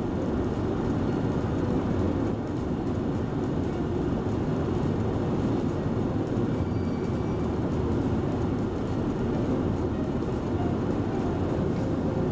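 Steady low rumble of a running vehicle, with no distinct events.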